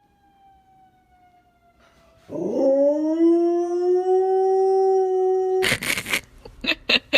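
A dog howling: one long howl that rises slightly in pitch and is held for about three seconds. Music with a beat starts near the end.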